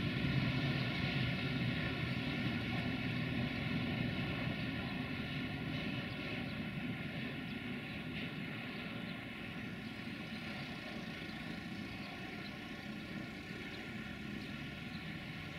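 Freight train running with a steady rumble and a steady hum, slowly fading.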